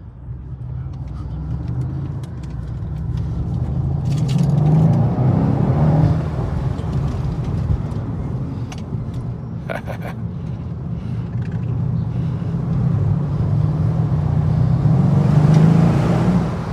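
Mercedes-AMG E63 S's 5.5-litre twin-turbo V8 at full-throttle acceleration: the engine note climbs, drops sharply about six seconds in at a gear change, then climbs again through the next gear and eases off near the end.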